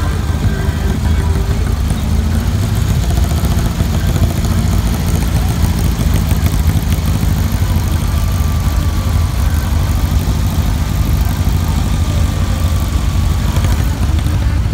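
Air-cooled Volkswagen flat-four engines of classic Beetles and Type 2 buses running at low speed in a slow procession, a steady low rumble with no revving.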